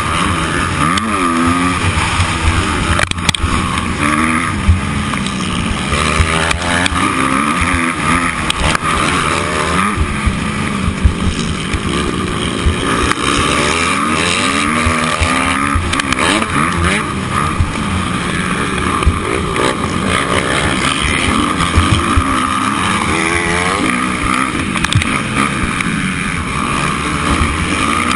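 Motocross dirt bike engine revving hard and easing off over and over, its pitch climbing and dropping every second or two, with a constant low rumble underneath.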